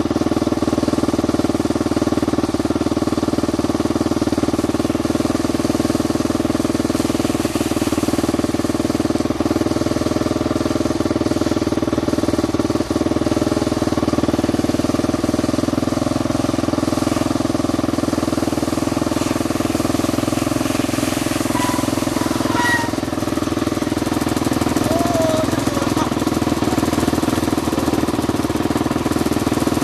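Dirt bike engine running at a steady speed.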